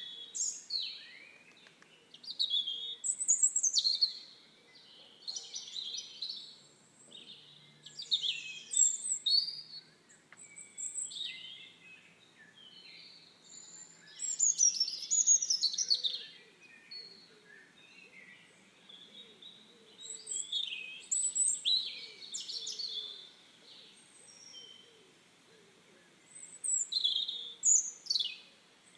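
Songbirds singing: short, high chirping and warbling phrases coming every few seconds, some overlapping.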